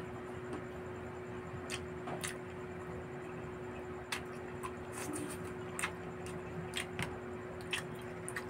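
A person chewing barbecued meat with open-mouth smacking: short wet clicks and smacks at irregular intervals, over a steady faint hum.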